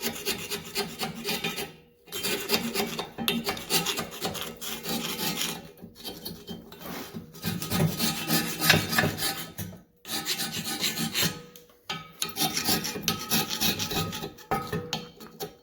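Matco carbide hand scraper scraping old gasket material and rust off a metal surface, in a run of rasping strokes broken by a few short pauses.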